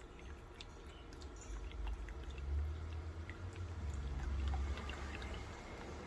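Small tabletop indoor fountain running: water trickling and dripping in scattered small splashes, over a low rumble that swells in the middle.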